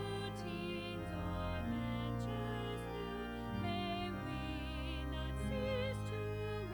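Slow sacred music during a church service: a singer holding long notes with vibrato over sustained keyboard or organ chords.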